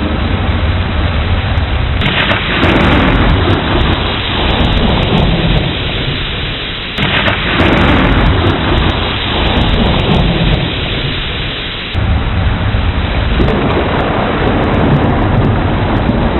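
Thunderstorm: steady heavy rain with three thunderclaps about five seconds apart, each breaking suddenly and rolling off into a fading rumble.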